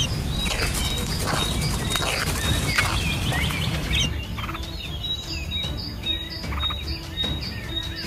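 Birds chirping repeatedly in short, quick rising and falling calls over a steady low background noise.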